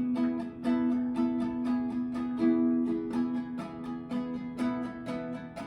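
Instrumental music: a plucked string instrument picking out a melody note by note.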